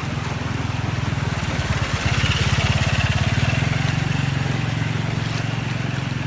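A small engine running steadily, with a fast even pulse, growing a little louder about two seconds in and easing off again.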